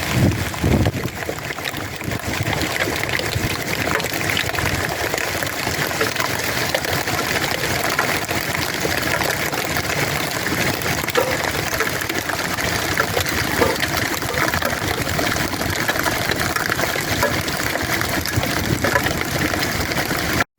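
Hail or hard rain falling steadily: a dense, even rush of noise full of small ticks. It cuts off suddenly at the end.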